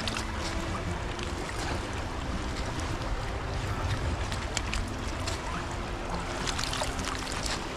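Wind rumbling on the microphone over the rush of the river, with scattered rustles and crackles as plastic trash is pulled from the muddy bank.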